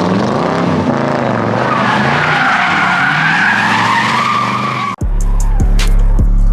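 A car doing a burnout: tires squealing continuously over a high-revving engine. About five seconds in it cuts off abruptly and gives way to music with a heavy bass and a sharp beat.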